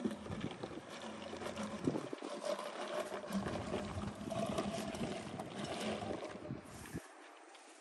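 Rustling and crackling of chilli plant leaves and stems as the pods are picked by hand. It opens with one sharp click and dies away about seven seconds in.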